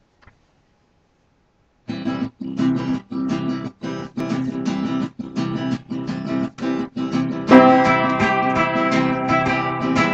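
Strummed guitar music starting about two seconds in: short chords with brief gaps between them, turning fuller and continuous for the last few seconds.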